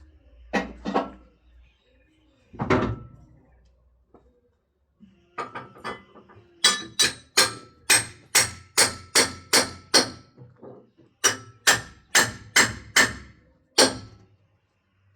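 A series of sharp, ringing knocks. A few come singly at first, then they fall into a steady run of about three a second with a short break in the middle.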